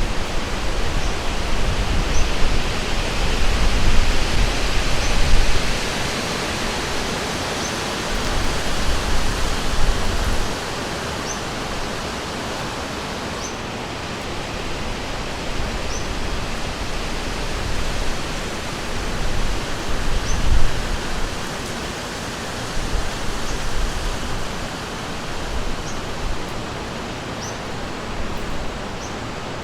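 Rushing river water, a steady hiss of flowing water, with a bird giving short high rising chirps every second or two. Bursts of low rumble come and go in the first ten seconds and again around twenty seconds in.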